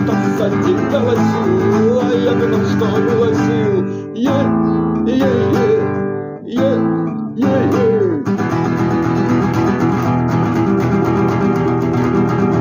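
Acoustic guitar strummed chords, with a wavering melody line over the strumming for the first eight seconds or so, then steady strumming.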